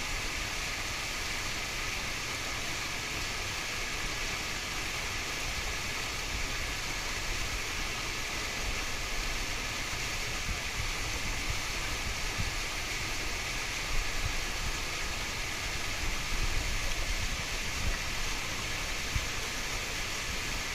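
Waterfall: falling water running as a steady, even rush, with a few brief bumps in the second half.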